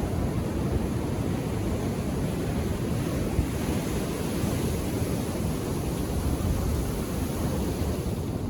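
Indian Ocean surf washing onto the shore, a steady low rush of calm waves with no distinct breaking crash.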